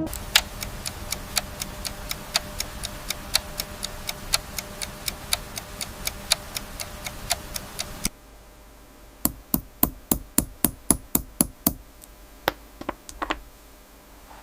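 Sharp, evenly spaced clicks or taps, about two or three a second, over a steady hiss. The hiss cuts off suddenly about eight seconds in, and a quicker run of about ten taps follows, then a few scattered ones near the end.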